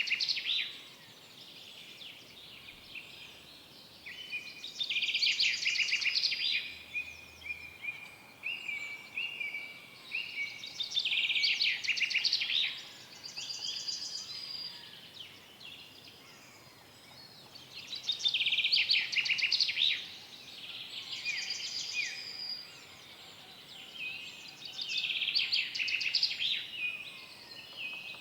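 Songbird singing in woodland: a loud phrase of rapid, high notes about every six or seven seconds, five times in all, with softer chirps and short notes in between.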